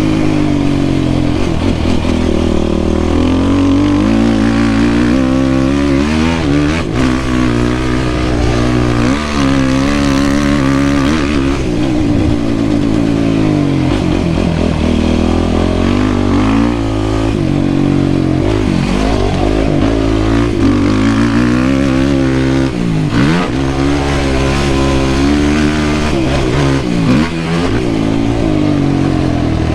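Yamaha YFZ450R quad's single-cylinder four-stroke engine under hard riding, revving up and dropping back again and again as the throttle opens and closes.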